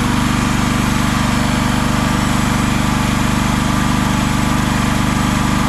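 Mini excavator's small gasoline engine idling steadily with the choke on, warming up after a cold start and running smoothly.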